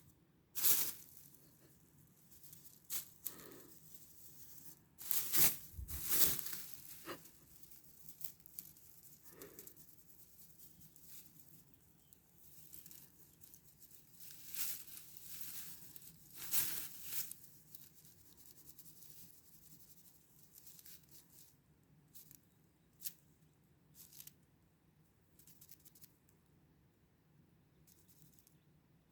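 Irregular short rustles and scrapes close to the microphone, about a dozen of them, with the loudest cluster about five to six seconds in.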